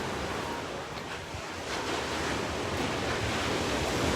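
Ocean surf: big waves breaking and washing in as a steady rushing noise that swells slightly partway through, with some wind on the microphone.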